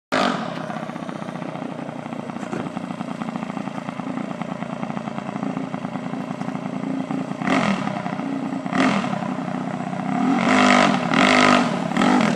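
Predator 212cc Hemi single-cylinder minibike engine running, getting briefly louder twice about seven and nine seconds in, then in two longer, louder spells near the end as the throttle is opened.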